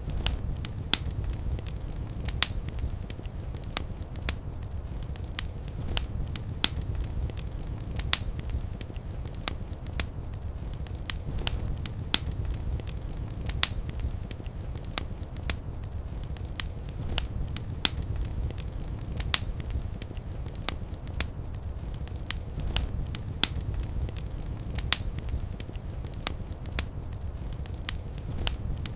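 Wood fire in a fireplace burning steadily: a low rumble with frequent sharp crackles and pops at irregular intervals.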